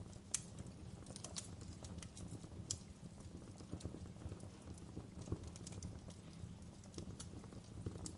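Wood fire burning in a fireplace: scattered, irregular crackles and pops over a low steady rumble, with a few sharper pops, one just after the start and others around a third and two thirds of the way through.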